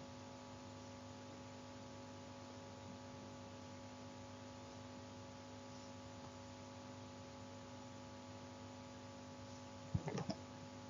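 Faint, steady electrical hum with several fixed tones, the background noise of the recording. A brief cluster of clicks near the end.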